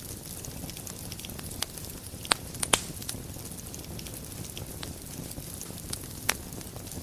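Wood fire burning in a fireplace: a steady low rumble of flames with scattered crackles and a few sharp pops, a cluster of the loudest about two and a half seconds in and another near the end.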